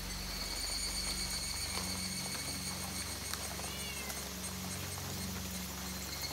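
Steady rain falling on the forest and cabin, with boots stepping down wooden steps and a short chirp a little past the middle.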